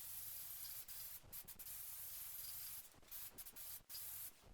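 Aerosol spray can of matte lacquer hissing as it sprays, in several long bursts separated by short breaks.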